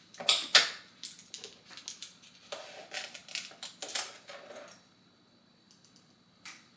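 A quick series of light clicks and taps from measuring spoons and a sugar container being handled while sugar is measured out. A few of the taps ring briefly, like metal. The sounds stop a little before five seconds in, and one more click comes near the end.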